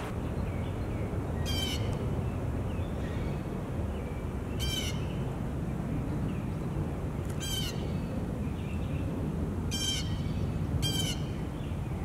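A bird giving short harsh, raspy calls five times, spaced a few seconds apart, with the last two close together.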